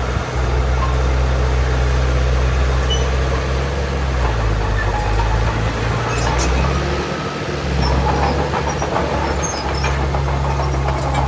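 Large diesel engine of heavy earthmoving machinery running steadily. Its low note changes briefly about seven seconds in, then settles again.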